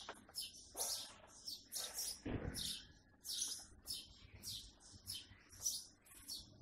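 A small bird chirping over and over, short high chirps about two to three a second.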